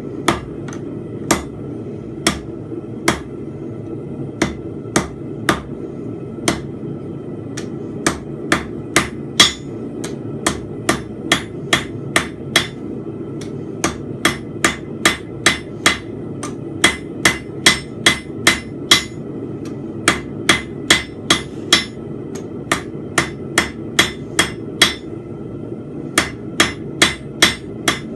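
Blacksmith's hammer striking hot steel bar on an anvil, forging a fence peg: sharp ringing blows, about two to three a second, in runs broken by short pauses. A steady low rushing noise runs underneath.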